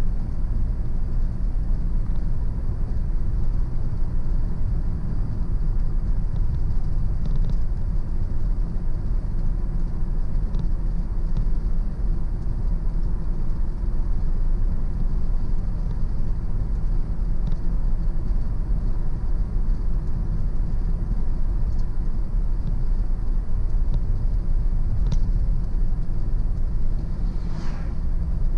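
Car driving along a road: steady low rumble of tyres and engine. A brief falling tone sounds near the end.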